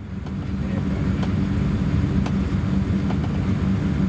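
Steady low rumble of a Vietnamese diesel train running along the line, with a few faint clicks scattered through it.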